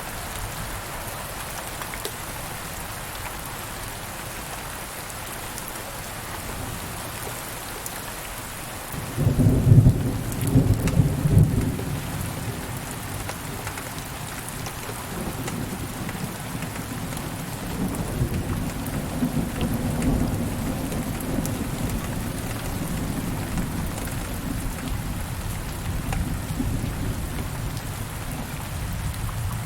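Steady rain falling, with a sudden loud crack and rumble of thunder about nine seconds in. A longer, quieter roll of thunder follows from the middle to the end.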